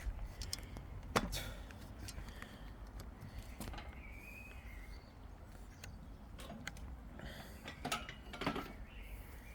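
Scattered knocks and clicks, the loudest about a second in and a few more close together near the end, over a steady low rumble.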